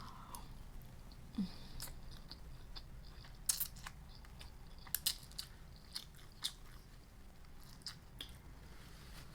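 A person biting and chewing crunchy fried food close to the microphone, with irregular sharp crunches every second or so.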